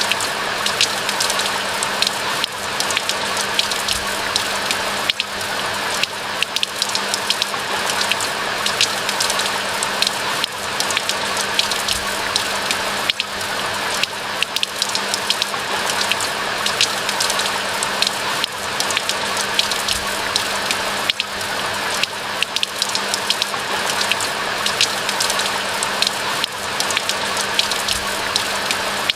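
Steady rain falling, with a dense patter of individual drops over a continuous hiss and a faint steady low hum underneath.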